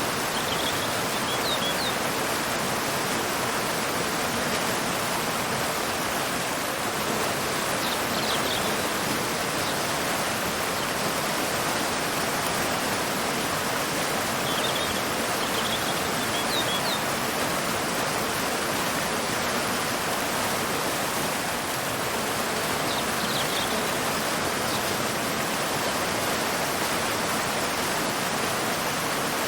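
Waterfall pouring into a river, a steady rush of falling water, with short high bird chirps breaking through in small clusters every several seconds.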